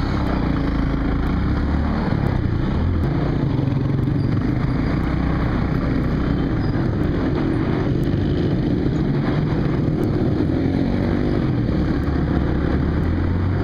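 Small motorcycle engine running steadily while riding in heavy city traffic, its note rising and falling slightly with the throttle, over the noise of surrounding vehicles.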